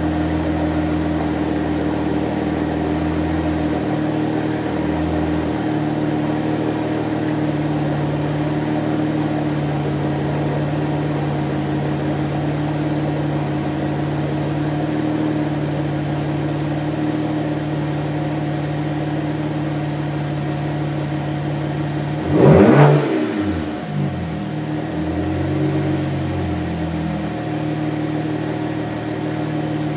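BMW 335i E92's turbocharged inline-six idling through a muffler-deleted exhaust, then revved sharply once about three-quarters through and falling back to idle, with a smaller blip a few seconds later.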